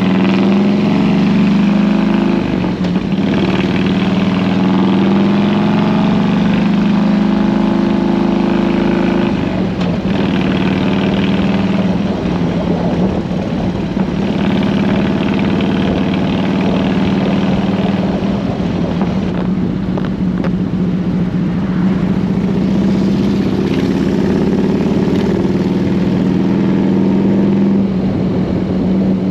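Harley-Davidson Road King's V-twin engine running while the motorcycle is ridden, its pitch shifting a few times as the rider changes speed.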